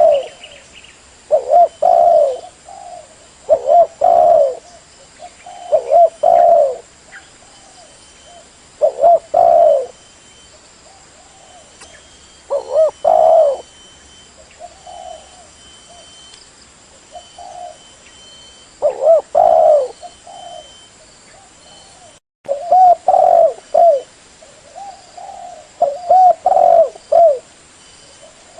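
Spotted dove (tekukur) cooing: short low phrases of a few coos each, repeated with pauses of one to three seconds.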